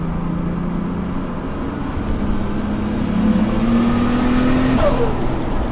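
Built single-turbo RB26 straight-six of an R32 Nissan Skyline GT-R, heard from inside the cabin, pulling in third gear under light throttle. The engine note climbs steadily and grows louder from about 3,000 rpm into the range where boost builds, then the revs fall away near the end.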